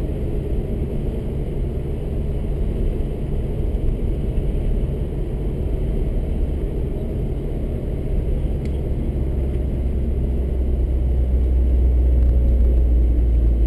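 Subaru BRZ's flat-four boxer engine heard from inside the cabin, running at a steady speed over road and tyre noise, getting louder and deeper over the last few seconds.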